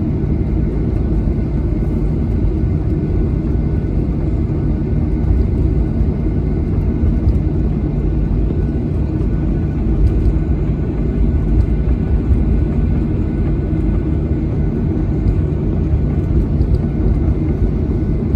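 Steady low rumble of a Boeing 737-800's CFM56 jet engines and rushing air, heard inside the passenger cabin, with faint steady whining tones over it.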